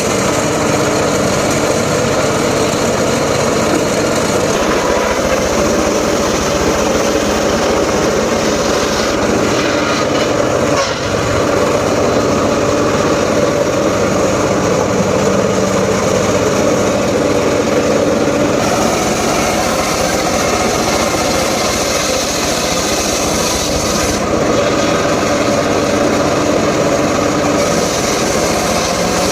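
Engine-driven saw running steadily while cutting mahogany wood, its pitch shifting slightly as the load changes about two-thirds of the way through.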